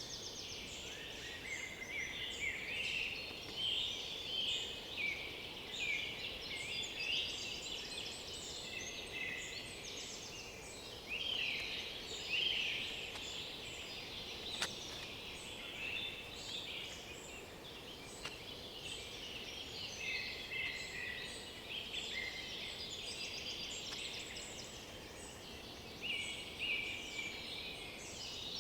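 A chorus of several songbirds singing at once, many short overlapping phrases and whistled notes. There is a single sharp click about halfway through.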